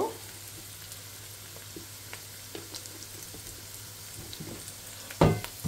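Sliced onions and garlic cloves frying in oil in a pan: a steady gentle sizzle with scattered small crackles. A single sharp knock sounds about five seconds in.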